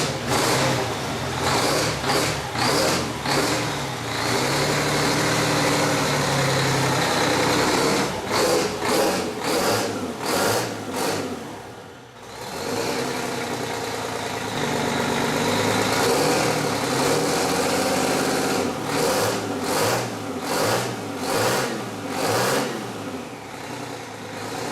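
A big engine running, idling between clusters of sharp throttle blips. It drops away briefly about halfway through, then picks up again.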